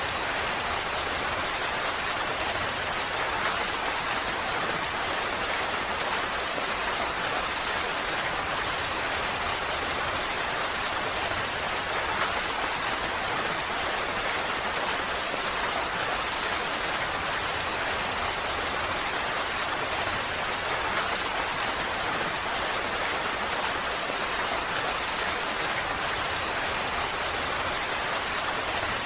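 Steady rain falling, an even hiss of many drops with a few distinct drip ticks standing out here and there.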